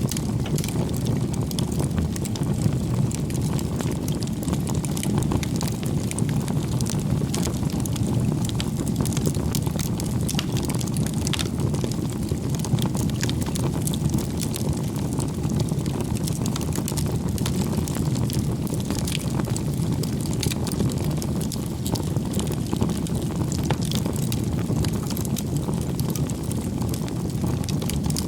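Wood bonfire burning: a steady low rush of flames with frequent small crackles and pops from the burning firewood.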